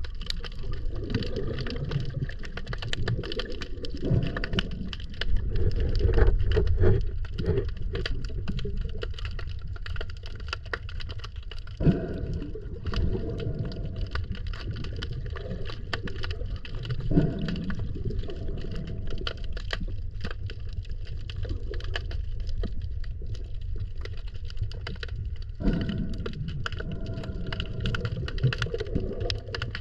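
Water sound with steady crackling and clicking over a low rumble, and louder bursts of bubbling and gurgling every few seconds.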